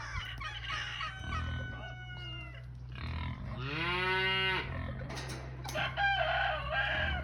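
A rooster crowing once, a long call about halfway through, among other chicken calls before and after it.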